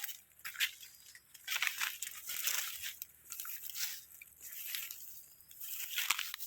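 Irregular crunching and rustling of dry leaves and undergrowth, coming in uneven bursts.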